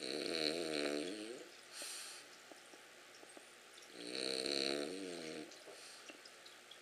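Sleeping dog snoring: two drawn-out snores, one at the start and another about four seconds later, with a short breath about two seconds in.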